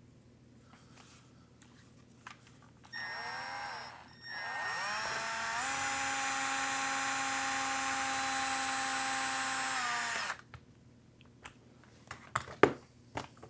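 Electric power drill motor spun up briefly, stopped, then run again, rising in pitch to a steady free-running whine for about five seconds before cutting off. A few sharp clicks and clatters follow near the end.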